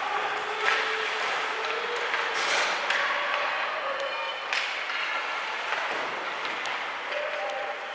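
Ice hockey game in an arena: a steady wash of skates on the ice and spectators' voices, broken by several sharp clacks of sticks and puck.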